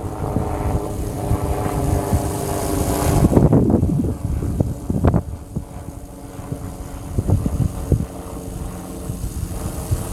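Small electric RC helicopter's motor and rotor running in flight, a steady pitched hum that drops lower a few seconds in, with wind buffeting the microphone in gusts.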